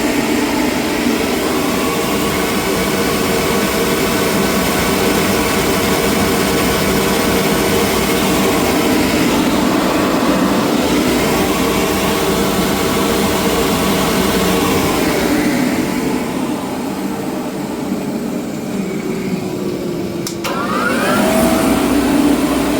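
A motor-driven machine running with a steady hum. Its pitch sags and the noise eases about two-thirds of the way through, then it picks up again with a brief rising whine near the end.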